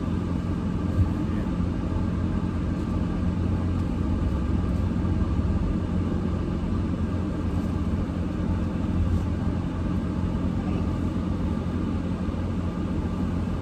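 Steady engine and road rumble heard from inside a car's cabin as it drives slowly or idles, with a small click about a second in.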